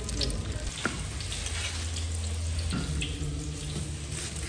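Blocks of tofu frying in hot oil in a wok, sizzling steadily over a low hum.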